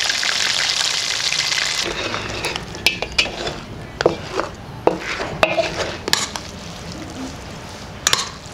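Chicken deep-frying in hot oil, a steady sizzle that drops away about two seconds in. Then comes a quieter stretch of stirring and tossing, with sharp clicks and scrapes of utensils against a pan or steel bowl.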